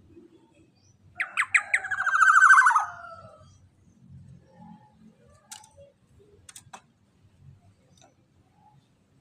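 Black-naped oriole giving a loud, harsh call about a second in: a few sharp notes, then a fast rattling run of about two seconds that drops in pitch at the end. A few faint ticks follow.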